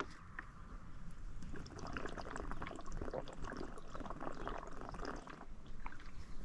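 Water sloshing in a drink bottle as a person drinks from it, a faint irregular liquid sound with small clicks.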